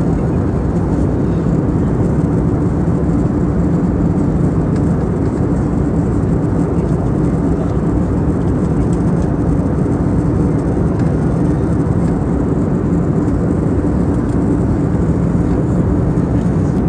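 Steady cabin noise inside an Airbus A320neo in flight: a loud, unchanging rumble of engines and airflow with a faint low hum.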